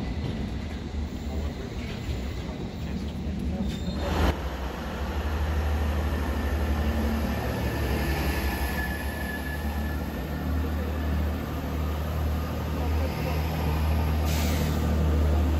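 Railway sounds: first a London Underground S Stock train, then, after a cut about four seconds in, a Chiltern Railways diesel multiple unit at the platform with its engines giving a steady low rumble. A faint high wheel squeal is heard briefly around the middle.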